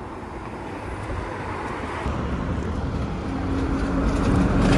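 A bus approaching, its engine and road noise growing steadily louder, with a steady low engine hum coming in about three seconds in.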